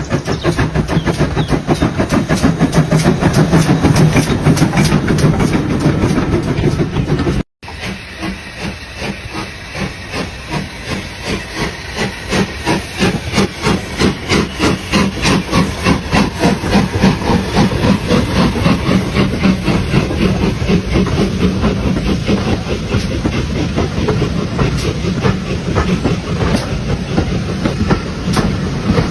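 Steam locomotive working hard, its exhaust chuffing in a fast, regular beat with steam hiss. About seven seconds in the sound cuts abruptly to another steam locomotive chuffing, its beats growing louder as it approaches.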